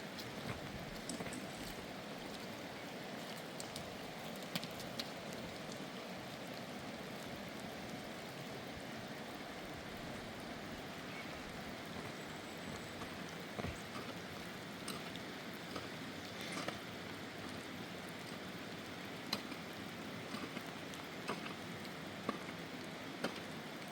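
Steady rain falling, with scattered sharp drop impacts ticking on nearby surfaces.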